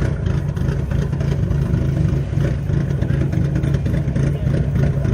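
A car engine running steadily, a constant low hum with no revving.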